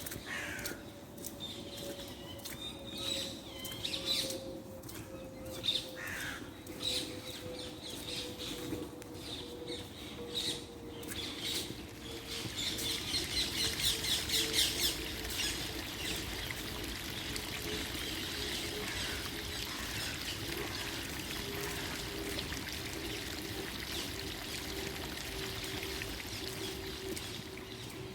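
Wild birds calling and chirping, with a rapid chattering call a little before halfway. A steady hiss like running water comes in around the middle, and a faint low hum slowly drops in pitch throughout.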